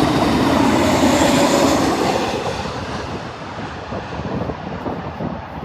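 Airbus jet airliner going past, its engines a loud, steady roar that starts to fade about two seconds in as the higher part of the sound falls away.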